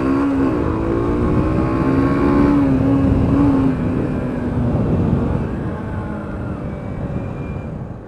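Yamaha YBR125's single-cylinder four-stroke engine running under way, its note holding steady for several seconds and then fading out about halfway through, with a low wind rumble on the helmet-mounted microphone throughout.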